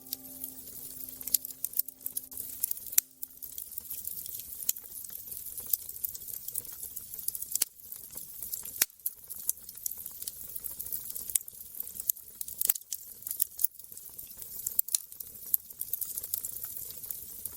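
Wood fire crackling: irregular sharp pops and snaps over a soft hiss. A few held musical notes die away in the first three seconds or so.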